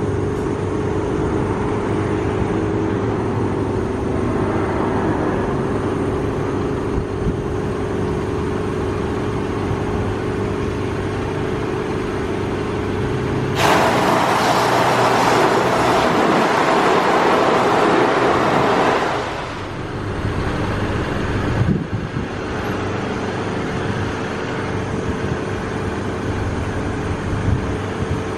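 Mark VII Softwash XT car-wash gantry at work, heard from inside the car: a steady mechanical hum with a held whine. About 13 to 14 seconds in, a loud rush of water spray strikes the car suddenly and lasts about five seconds before fading away.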